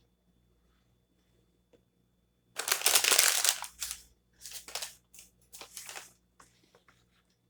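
A food wrapper crinkling in bursts: one long loud rustle about two and a half seconds in, then several shorter ones.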